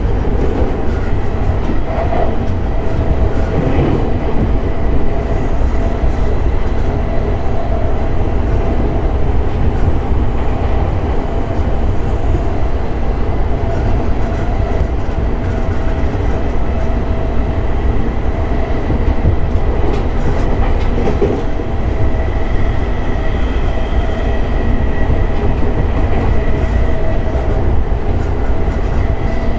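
Running sound of a JR E217 series electric train heard from inside the car while it is moving: a steady rumble of wheels on rail with faint steady whining tones.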